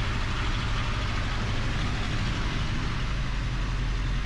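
Cessna 172RG's four-cylinder piston engine and propeller running at low taxi power, a steady drone heard inside the cockpit.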